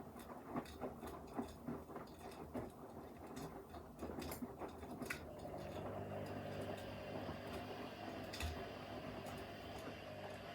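Washing machines mid-wash: irregular clicking and pattering as the drum tumbles, then from about halfway a steady motor hum with a whine.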